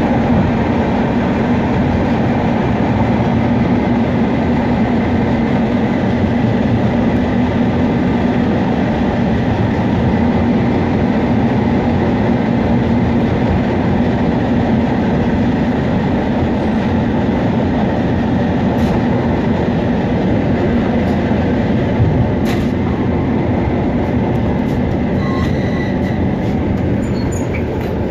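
Steady running noise of a suburban electric train heard from inside its vestibule, with a steady low hum, while another train runs close alongside. A single knock sounds about twenty-two seconds in.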